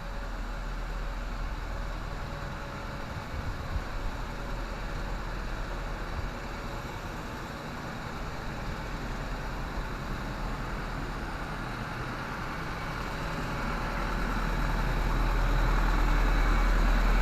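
An engine idling steadily with a deep hum, getting louder over the last few seconds.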